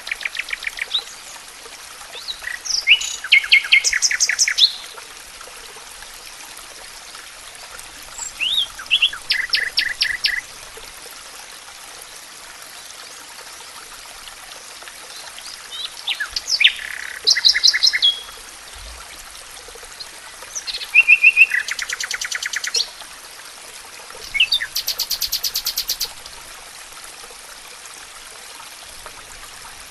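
Songbird singing short phrases of fast trills and rapidly repeated notes, six in all, a few seconds apart, over a steady hiss of running water.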